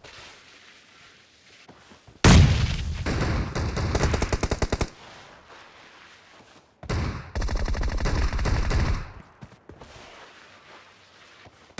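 Video-game automatic gunfire in two rapid bursts. The first starts about two seconds in and lasts a little over two seconds; the second starts about seven seconds in and lasts about two seconds.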